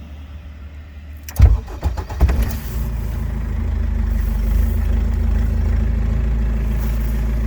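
Cummins R2.8 turbocharged four-cylinder diesel in a 1969 Scout 800A, started from cold after the intake heater grid has warmed. It cranks briefly and fires about a second and a half in, stumbling for about a second, then settles into a steady idle.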